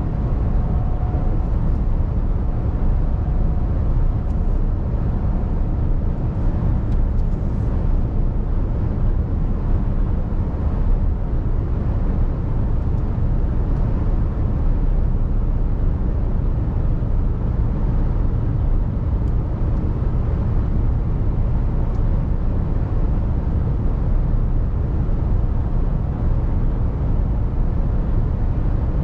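Mercedes-Benz Actros truck's diesel engine and road noise while driving, a steady low rumble with no sudden changes.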